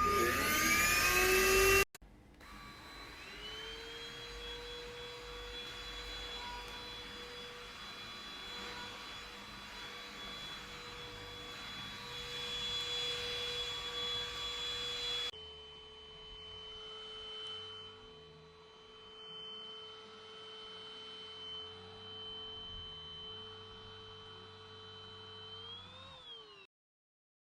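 Russell Taylors V5 cordless vacuum cleaner's motor whining as it spins up, then running with a steady high whine over a rush of airflow. The pitch rises briefly just before it stops near the end.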